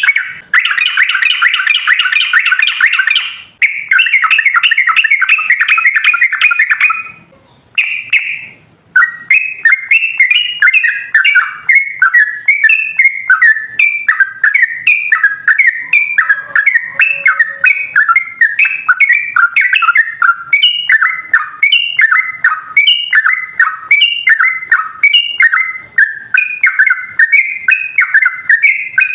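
Yellow-vented bulbul song: a fast, unbroken chatter for the first seven seconds or so, a short break with one brief burst, then a long run of short, bubbly repeated phrases about two a second. This is the long, rapid 'ropel' song that keepers use to get caged bulbuls to answer.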